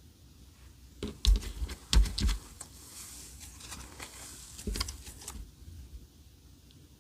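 Clear slime being squeezed and poked by hand: clusters of sticky clicks and pops about a second in and again near five seconds, with a soft crackle between them.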